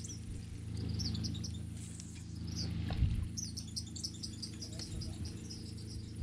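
Birds chirping in quick runs of short, high notes, thickest in the second half, over a steady low hum. A single low thump about three seconds in.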